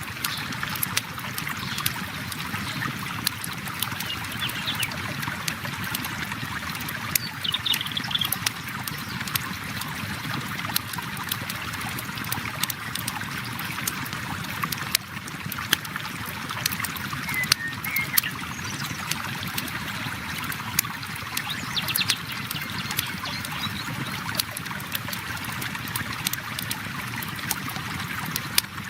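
River water flowing steadily with a campfire crackling in sharp irregular pops, and a few short high chirps now and then.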